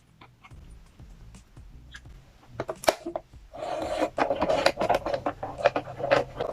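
Close-miked handling of desserts and their packaging: a few sharp clicks near the middle, then about three seconds of dense crackling and rustling.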